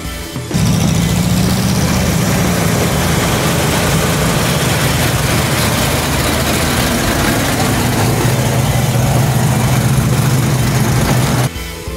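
Buick Skylark's engine running at low revs as the car is driven slowly past and away, a loud, steady low engine note. It cuts in about half a second in and stops abruptly near the end.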